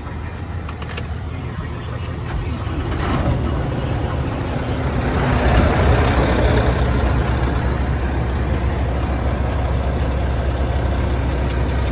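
Semi-truck diesel engine running after a fuel filter change and priming. It grows louder about five seconds in, as a high whine rises and then holds steady.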